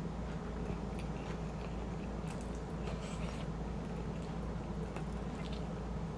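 Close-miked chewing of shrimp chili and rice, with soft, wet mouth clicks every second or so over a steady low hum.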